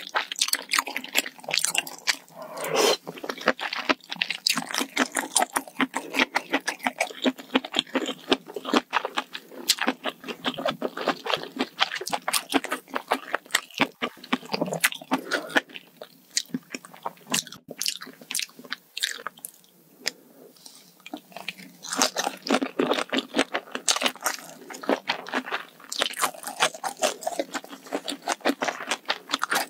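Close-miked chewing and crunching of spicy malatang hot pot: a dense run of wet, crisp bites and mouth sounds. It thins out for a few seconds past the middle, then picks up again.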